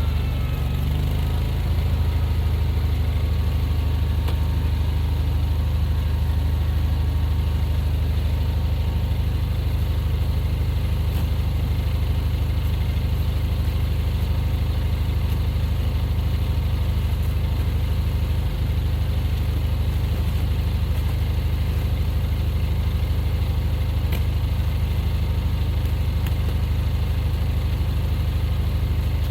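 Vehicle engine idling steadily with an even low hum.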